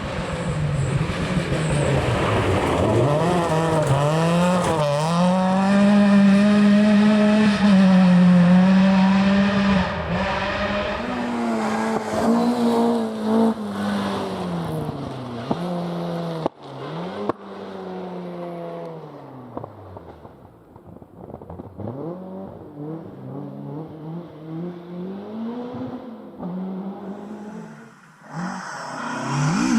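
Rally car engine revving hard, its pitch climbing and dropping repeatedly through gear changes, loud at first and then fading away into the distance. A short loud burst of sound comes just before the end.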